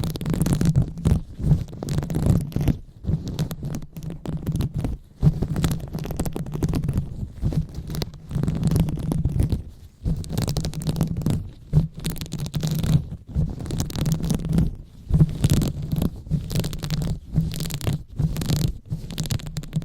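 Hands rubbing and massaging directly on a microphone: irregular rubbing and scraping strokes with a deep rumble of mic handling, the 'brain massage' ASMR trigger. It pauses briefly about five and ten seconds in.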